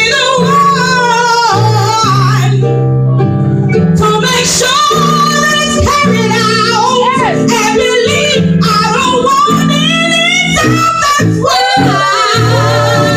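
A woman singing gospel in sliding, wavering vocal runs over an instrumental accompaniment with sustained low chords.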